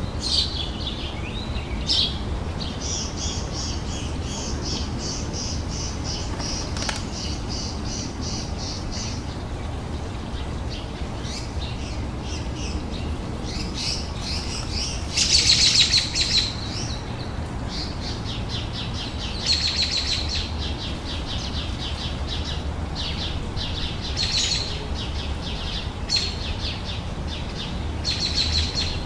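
Songbirds singing, with repeated chirps and fast trills, the loudest burst about halfway through, over a steady low rumble.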